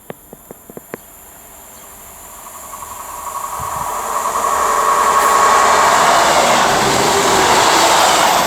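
A few sharp clicks in the first second, then a Class 158 diesel multiple unit of two coupled units coming into the station. Its engine and wheel noise swells over about three seconds and then runs loud and steady.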